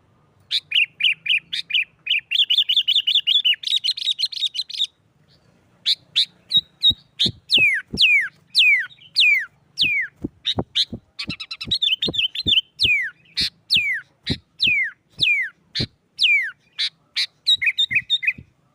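Sooty-headed bulbul (kutilang) singing in the agitated 'nggaruda' style. It opens with a fast chattering run of repeated notes for about four seconds, pauses briefly, then gives a string of loud downslurred whistles about two a second, and ends in quick repeated notes.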